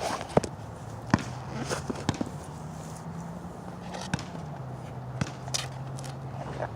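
Basketball bouncing and shoes hitting a wet court, a scatter of sharp slaps a second or so apart, over a steady low hum.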